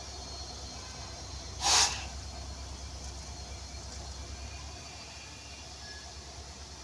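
Train running with a low, steady rumble, and one short, loud hiss of air just under two seconds in.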